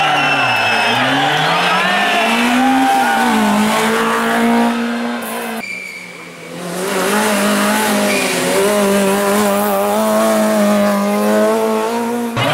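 Rally car engines at racing revs: one car's engine climbs and drops in pitch through gear changes, with tyres squealing. About five and a half seconds in the sound cuts abruptly, and another car's engine swells in and holds high revs.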